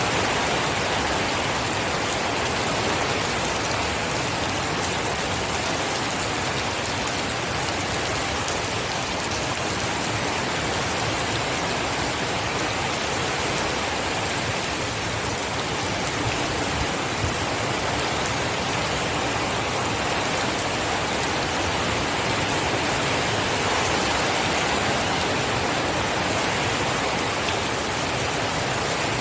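Steady rainfall: an even hiss of many drops that does not change.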